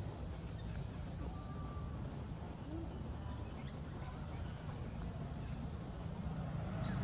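Outdoor ambience: a steady low background rumble with short, high, rising bird chirps repeating every second or so.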